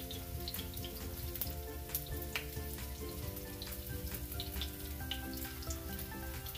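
Tofu frying in a pan of hot oil, sizzling with many small sharp pops, under background music.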